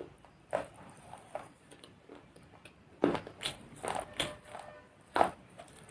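Hard objects knocking and clicking as they are handled and set down: irregular sharp taps, clustered about three to four seconds in, with the loudest knock a little after five seconds.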